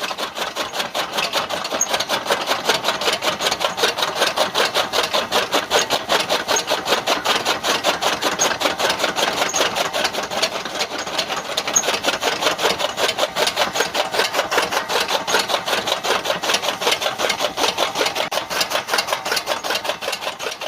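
A small motorised mechanism running with a fast, even clatter that stops near the end.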